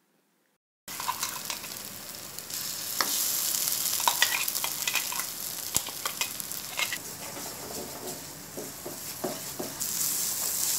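Ground onion-tomato masala paste sizzling in hot coconut oil in a frying pan while a spatula stirs and scrapes it, with scattered clicks of the spatula against the pan. The sound starts abruptly about a second in.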